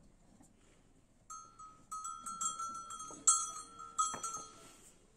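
Bell on a cow clanking irregularly as the animal moves: a ringing metal tone struck many times, starting about a second in and loudest in the last couple of seconds.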